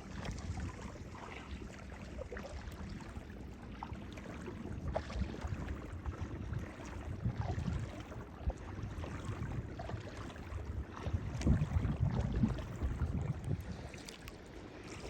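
Wind rumbling on the microphone, swelling about two-thirds of the way through, over water lapping around a kayak, with scattered small splashes and drips.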